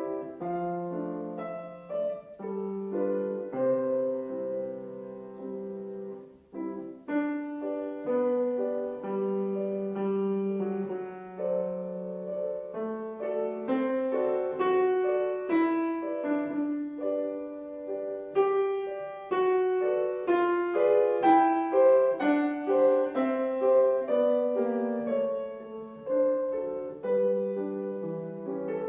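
Piano playing a classical piece: a melody over chords in a steady flow of notes, with a short break about six and a half seconds in.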